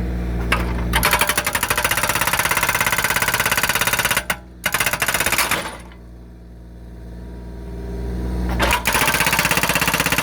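Hydraulic breaker on a Kubota U35S mini excavator hammering a log to split it for firewood: runs of rapid, even blows starting about a second in, pausing briefly near four seconds, stopping near six seconds and starting again near nine seconds. Between runs the excavator's diesel engine is running, and it grows louder before the last run.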